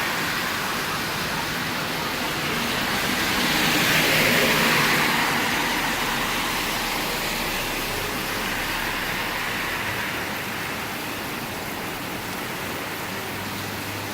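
Heavy rain pouring steadily, with a car's tyres hissing past on the wet road about four seconds in.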